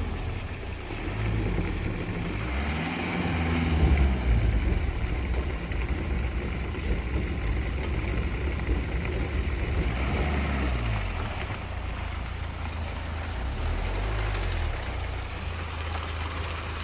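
A car engine running with a steady low rumble, its pitch rising and falling twice, about three seconds in and again about ten seconds in, as the car is manoeuvred.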